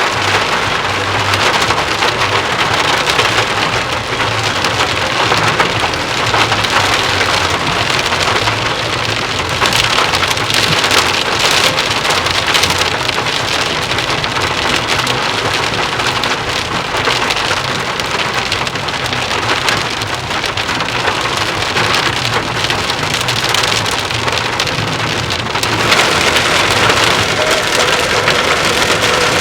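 Heavy rain falling steadily and splashing on hard surfaces, a continuous dense patter that swells a little louder near the end.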